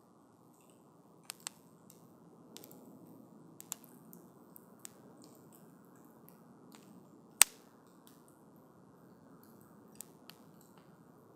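Wood campfire burning with a soft, steady hiss and scattered sharp crackles and pops from the burning logs. The loudest pop comes about two-thirds of the way through.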